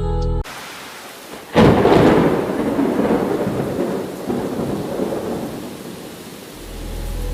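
A thunderclap breaks about a second and a half in, then rumbles and slowly fades over several seconds, with rain falling steadily.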